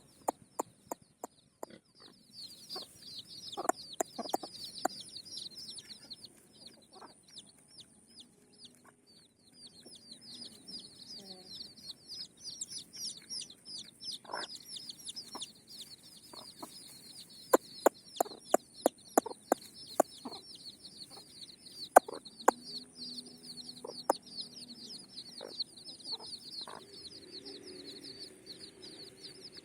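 Desi free-range chickens clucking, over a dense, continuous run of high chirping and scattered sharp clicks.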